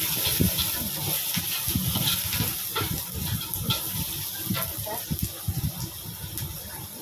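Egg frying and sizzling in hot oil in a wok over a gas burner, with repeated scrapes and clicks of a metal spatula stirring and chopping it against the wok.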